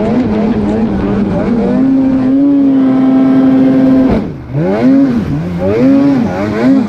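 Snowmobile engines revving hard: the pitch is held high for a couple of seconds, drops sharply when the throttle comes off about four seconds in, then rises and falls in quick throttle blips.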